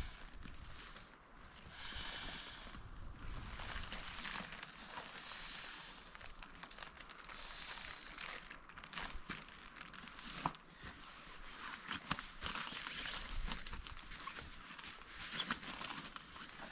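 Irregular rustling and crinkling, with scattered light clicks.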